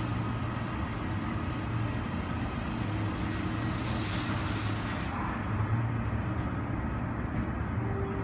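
Steady low drone of jet airliners on an airport apron, with a twin-engine widebody taxiing out, and a brief rush of higher-pitched hiss about three to five seconds in.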